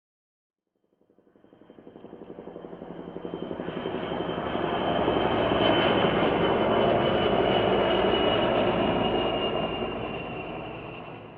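Helicopter flying past: rapid rotor chop and a high turbine whine grow louder over several seconds, hold, then fade away, the whine dropping slightly in pitch as it passes.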